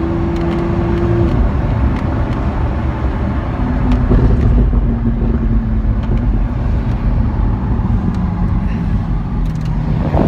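Lamborghini Aventador SV's V12 engine running in sport mode, a steady low drone heard from inside the car's cabin.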